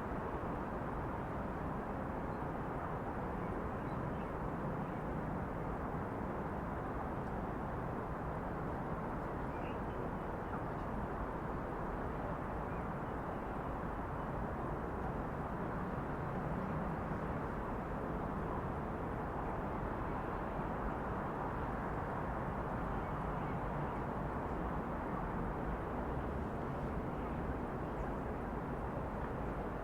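Steady city ambience, a constant low hum of distant traffic, with one brief faint high chirp about ten seconds in.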